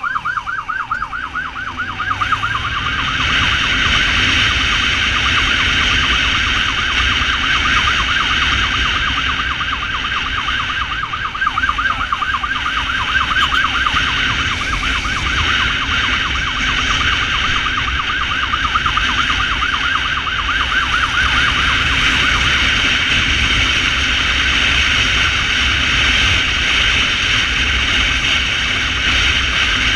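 Ambulance motorcycle's electronic siren in a fast yelp, several quick rising-falling cycles a second, over the motorcycle's running engine and a steady rush of wind while riding. The siren is plainest in the first half and fades into the wind noise later.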